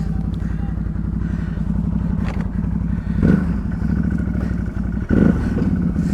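ATV engine running steadily on a rough trail, with two loud thumps about three and five seconds in. A thin, steady whine comes in over the engine for the second half.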